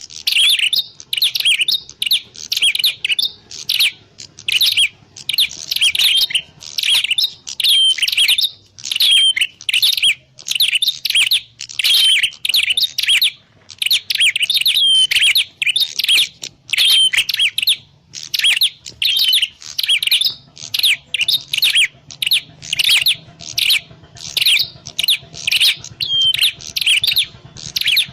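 Prenjak klawu (a prinia) calling: rapid, loud, high chirps repeated in quick runs, with only brief pauses between phrases.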